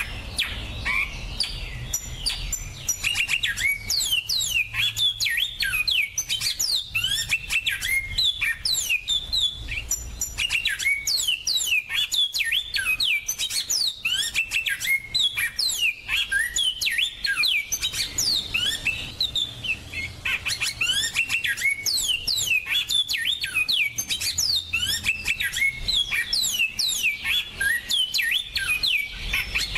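A small finch singing a fast, continuous twittering song of high, quick down-slurred notes, with a faint low hum underneath.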